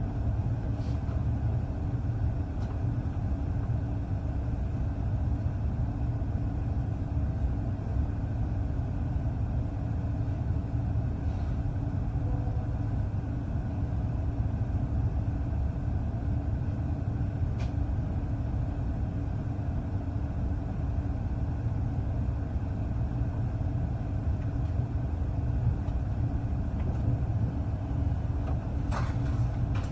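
Steady low rumble of a moving passenger train, heard from inside the carriage, with a few faint clicks.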